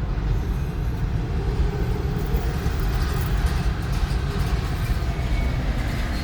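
Steady low rumble and road noise of a car driving along at speed.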